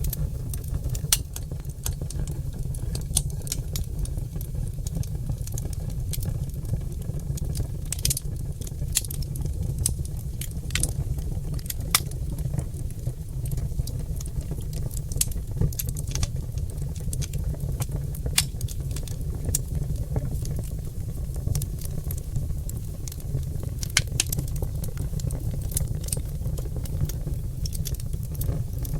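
Oak logs burning in a fireplace, crackling and popping: irregular sharp pops, a few of them louder, over a steady low rumble of the fire.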